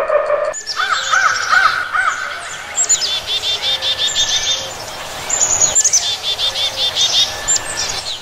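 Birds calling: quick runs of short, repeated chirping notes from several birds overlapping, with the chorus changing abruptly twice.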